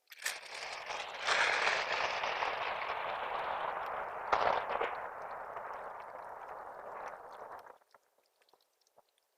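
Plastic trash bag rustling and crinkling for about eight seconds as it is handled and stuffed, with a couple of sharper crackles, about 4 seconds in the loudest, then cutting off abruptly.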